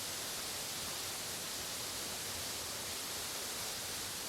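Steady, even rushing of a forest stream.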